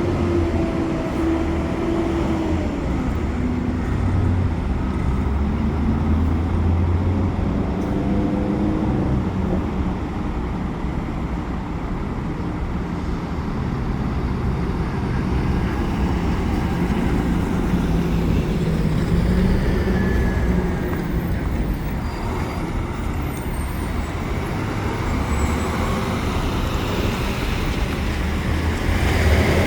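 Heavy diesel vehicles passing by, their engines running with a pitch that rises and falls as they accelerate and slow, over steady traffic rumble.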